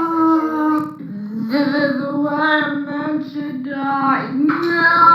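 A high, child-like voice singing long held notes, wavering in places, with a quick upward swoop about four seconds in.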